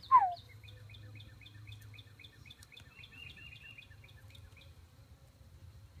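A songbird calling: one loud falling whistle, then a quick run of short high chirps, about five a second, with a brief trill partway through, stopping a little before the end.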